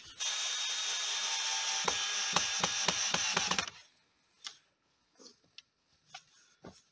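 Fastening work on the dugout's roof: a steady noise lasting about three and a half seconds, with several knocks in it, that cuts off sharply. A few scattered light knocks follow.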